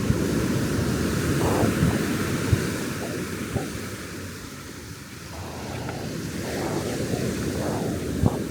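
Ocean surf breaking and washing up the beach, with wind buffeting the microphone. The wash dies down about midway and builds again, and a few short knocks stand out above it.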